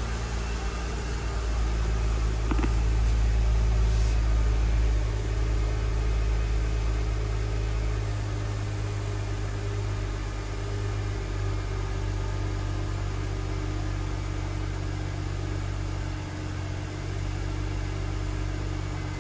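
2009 Mercedes-Benz E350's 3.5-litre V6 idling steadily after a cold start.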